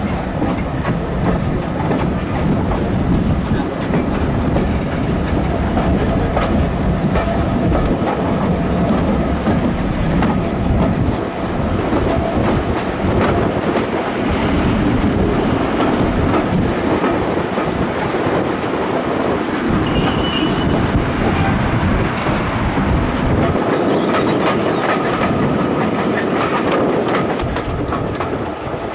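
A heritage railway train running on the track, its wheels clattering steadily over the rail joints.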